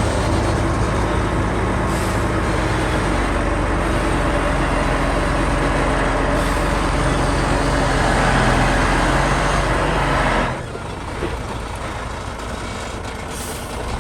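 Shantui crawler bulldozer's diesel engine running steadily. About ten and a half seconds in, the sound drops abruptly to a quieter level.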